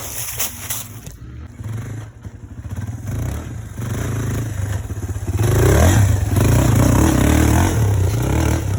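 230cc single-cylinder four-stroke dirt bike engine running under riding load, with some rattling and scraping. About halfway through it gets louder and revs up and down as the throttle is opened.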